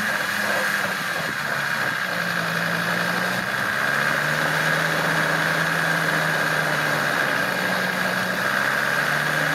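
Off-road 4x4 engine idling steadily, its pitch shifting slightly up and down, with a steady high-pitched whine running over it.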